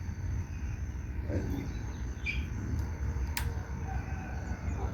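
Faint, scattered bird chirps over a steady low rumble, with one sharp click about three and a half seconds in.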